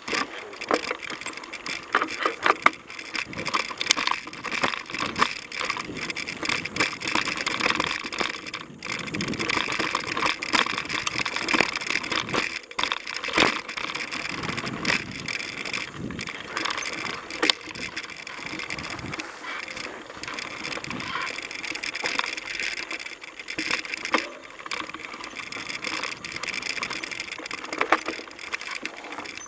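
Mountain bike ridden down a dirt trail: steady tyre and trail noise with frequent clicks and knocks as the bike rattles over bumps.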